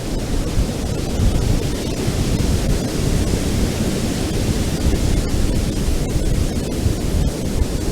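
Ocean waves washing onto a beach: a steady rush of surf whose hiss swells from about two to five seconds in, over a low wind rumble on the microphone.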